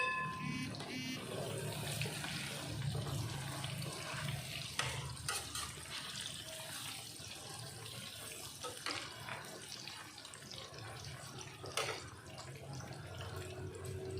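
Tofu and tempeh frying in hot oil: a steady sizzle with scattered sharp pops and crackles.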